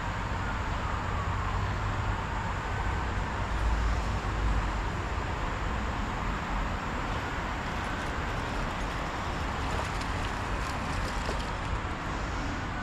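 Steady road traffic noise, with a louder low rumble about four seconds in and a faint whine that slowly slides in pitch as vehicles pass.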